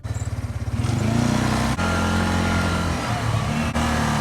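Four-wheeler (ATV) engine running, starting with a rapid low putter that rises in pitch about a second in as it picks up speed, then running steadily under way.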